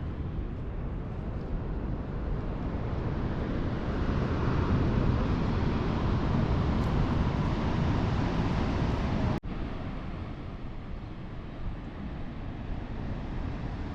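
Steady rumble of a vehicle in motion, loudest in the low range, cutting out for an instant about two thirds of the way through.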